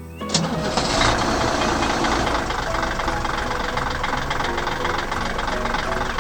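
A truck engine sound effect starting suddenly about a third of a second in and then running steadily, with background music underneath.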